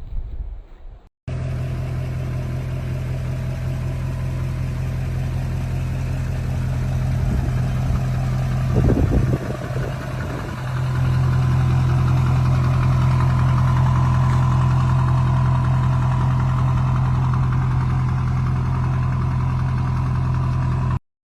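A truck engine idling steadily with a low hum. About nine seconds in there is a brief surge, and from about eleven seconds it runs a little louder until it cuts off abruptly near the end.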